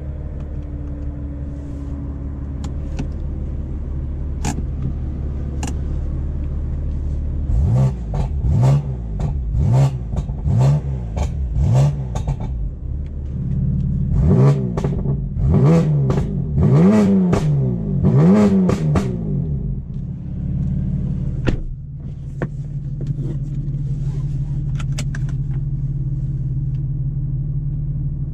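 BMW M4's twin-turbo straight-six running through an Akrapovic exhaust with the catalytic converters removed. It holds a steady low drone, then is revved in about ten quick throttle blips, each rising and falling in pitch, before settling back to a steady drone.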